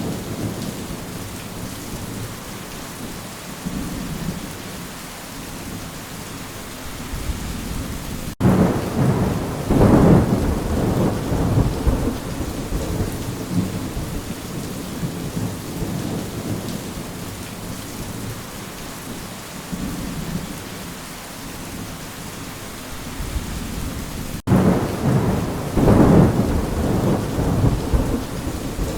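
Steady rain falling, with two rolls of thunder rumbling, one about a third of the way in and one near the end.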